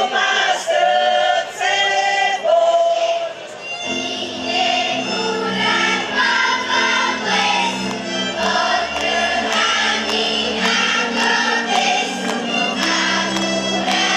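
A choir singing a song, unaccompanied at first; about four seconds in, instrumental accompaniment with a bass line and a steady beat comes in under the voices.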